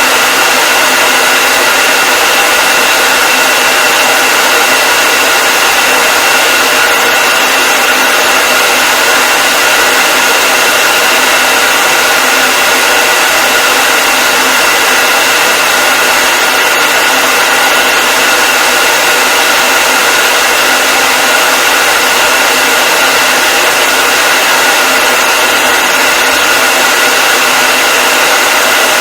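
Hair dryer running continuously at a constant speed: a loud, even rush of air with a steady motor whine over it.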